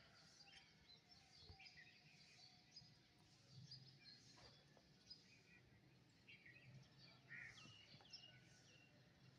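Faint chorus of small birds chirping, with many short high notes scattered and overlapping throughout, over a faint low steady hum.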